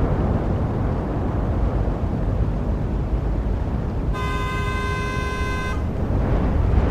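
Road traffic with a steady low rumble of passing vehicles. A car horn sounds once, held for under two seconds, about four seconds in.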